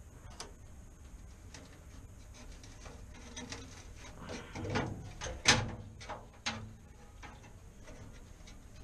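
A run of short clicks and knocks from something being handled, bunched together in the middle, with one sharp, loud knock about halfway through, over a low steady hum.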